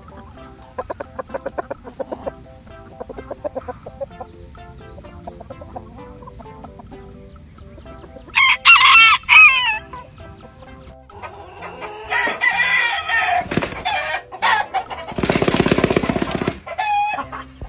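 Chickens clucking, with a rooster crowing loudly once about eight and a half seconds in, followed by more loud, rough calls from the flock.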